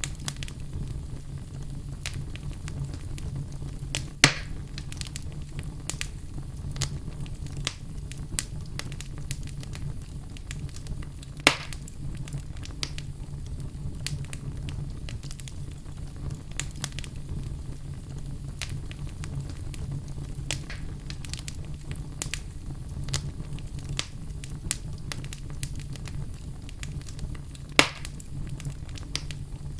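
Wood fire burning in a fireplace: constant crackling over a steady low rumble, with three sharp, louder pops.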